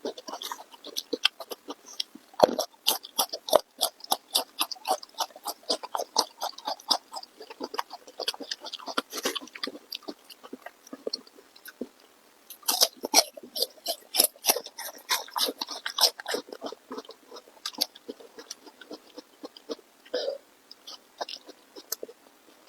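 Close-miked chewing of food: a quick, irregular run of mouth clicks and smacks, busiest at the start and again just past the middle.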